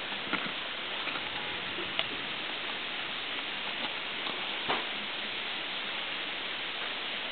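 Steady rain falling, with a few sharp drips landing close by, the loudest a little under five seconds in.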